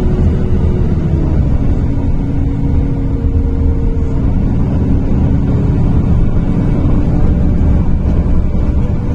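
NefAZ-5299 city bus heard from inside the passenger cabin while driving: a steady low engine and road rumble with a humming tone that steps down in pitch about a second in.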